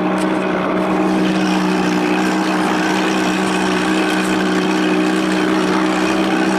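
1993 Evinrude two-stroke outboard, rebuilt from 25 to 35 hp with a bigger intake, running at a steady throttle while pushing the boat along.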